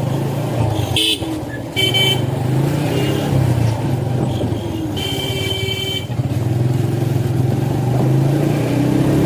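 Motorcycle engine running steadily while riding in traffic, with vehicle horns honking: short blasts about one and two seconds in, and a longer one-second honk about five seconds in.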